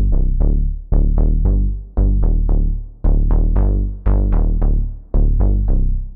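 Waldorf Pulse 2 analog monosynth playing a bass preset: a repeating line of short plucked bass notes, about three a second, each starting sharply and closing down fast from bright to dull, with a deep low end. The last note fades away near the end.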